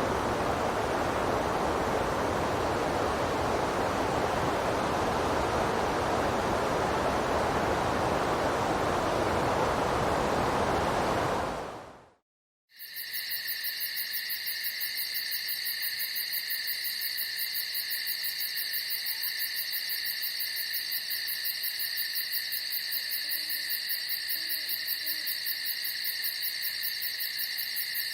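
A steady rushing noise fades out a little before halfway. After a moment of silence a night chorus of insects begins, a steady high-pitched trilling, with an owl hooting faintly a couple of times later on.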